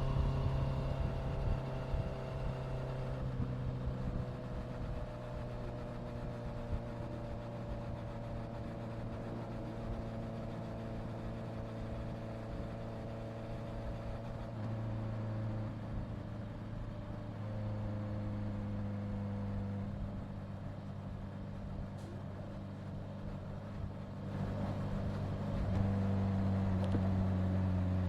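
Honda CBR650F's inline-four engine running at a steady cruise, its note easing about three seconds in and picking up in steps later, loudest near the end, with wind rumble over the microphone.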